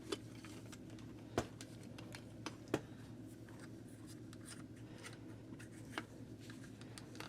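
Small plastic parts of a Fluidmaster toilet fill valve being handled as its top cap is fitted back on: a few faint, sharp clicks and taps spread over the seconds, over a low steady hum.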